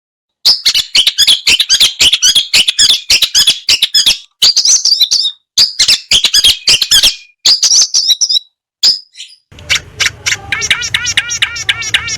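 Recorded songbird song spliced into a bird-training master track: rapid, varied high chirping phrases that cut off abruptly several times. About nine and a half seconds in, a different recording with a low hum behind it begins, holding a fast, even run of repeated chirps.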